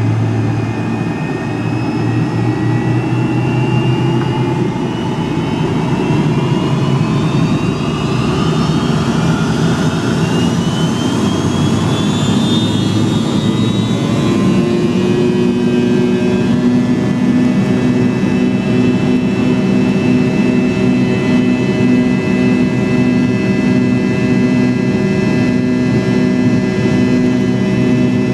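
McDonnell Douglas MD-83's rear-mounted Pratt & Whitney JT8D turbofan engines heard from inside the cabin, spooling up with whines rising in pitch over the first half, then holding steady at high thrust, as for the takeoff roll.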